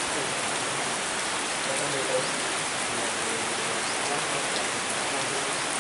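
Steady heavy rain falling, an even dense hiss throughout.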